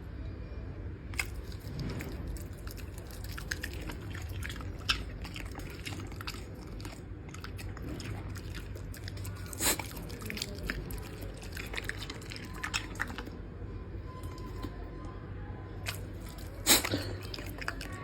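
A dog chewing and crunching food, irregular small crunches with two louder snaps, one about halfway through and one near the end.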